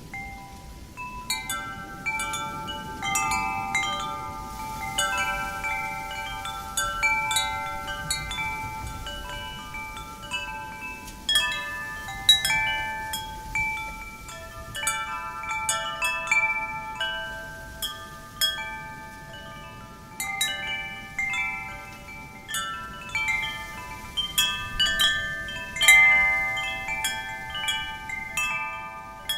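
Wind chimes ringing irregularly as the wind sways them, several tones struck in quick flurries and ringing on over one another, over a faint rush of wind.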